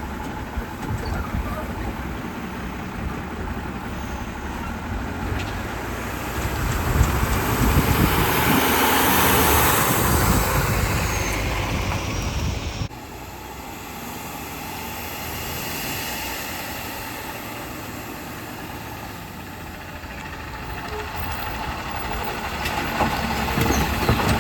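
Autocar WX64 garbage truck with a Heil Rapid Rail side-loader running, its engine growing louder for several seconds. About thirteen seconds in the sound drops abruptly, and the truck keeps running more quietly, rising again near the end.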